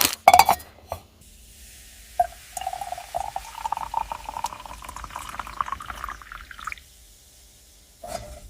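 Liquid poured into a container for about four and a half seconds, its pitch rising slightly as the vessel fills, then stopping. Sharp knocks of handling come just before it.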